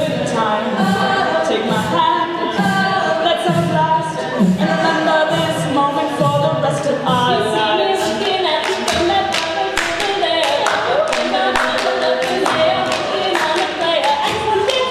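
Live a cappella group singing in harmony with a low, pulsing vocal bass line. From about eight seconds in, rapid sharp percussive hits join the singing.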